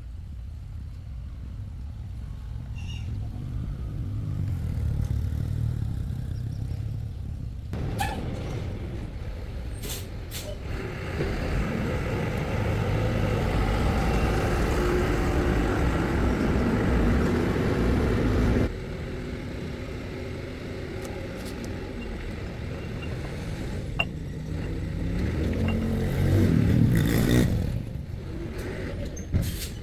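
Motor vehicle engine running with a steady low rumble. It grows louder in the middle and cuts off abruptly about nineteen seconds in, then swells again near the end, with a few clicks.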